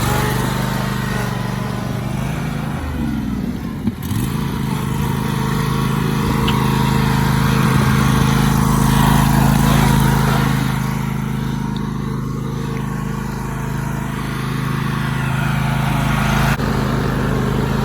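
LT 1050 lawn tractor's engine running steadily, just brought back to running order, its level swelling a little mid-way.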